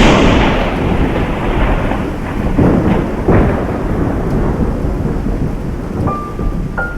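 Thunderstorm: a loud thunderclap cracks at the start and rolls away into long rumbling, with a second swell of rumble a few seconds in, over steady rain. A couple of steady high tones come in near the end.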